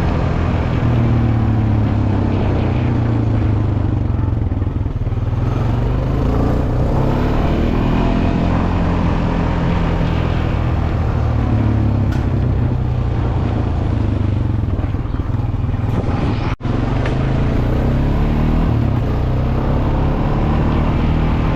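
Steady wind rush on the microphone while riding across the street, with a low, varying vehicle-like drone underneath.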